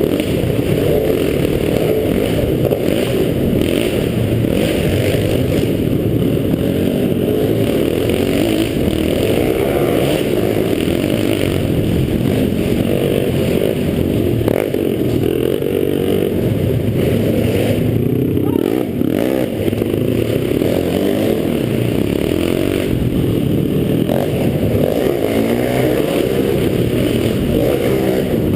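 Minibike engines running steadily at speed.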